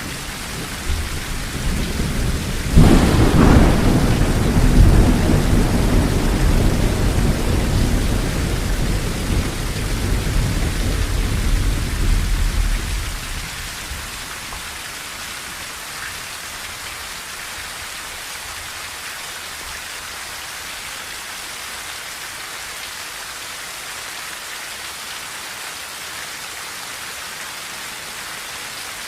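Steady rain drumming on a tin roof, with a thunderclap about three seconds in whose deep rumble lasts some ten seconds before dying away, leaving the even rain hiss.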